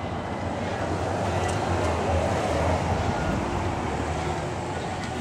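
Engine of a 1921 chain-drive American LaFrance fire engine running with a steady rumble, swelling louder about two seconds in and then easing off.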